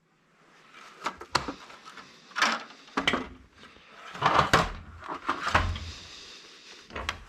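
Irregular clatter and knocks of small scrap pieces being handled and tossed into a container, starting about a second in.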